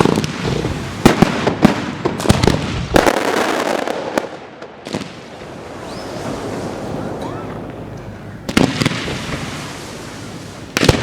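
Fireworks going off: a run of sharp bangs in the first three seconds, then a crackling spell, a quieter lull, and more bangs near the end.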